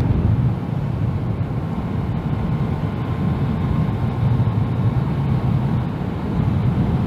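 Yamaha MT-09 three-cylinder motorcycle engine running while riding at a steady pace, mixed with a steady rush of wind noise.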